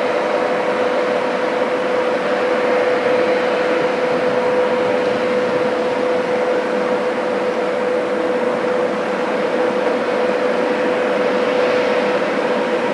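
Steady drone of heavy crane machinery with a constant whine held at one pitch, unchanging throughout.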